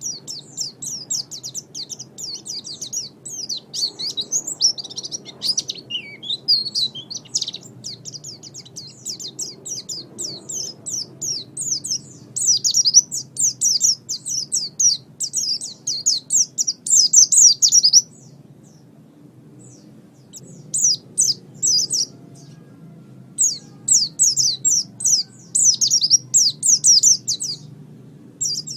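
Pleci (white-eye) singing a long, rapid twittering song of high chirps, broken by a pause of about three seconds past the middle.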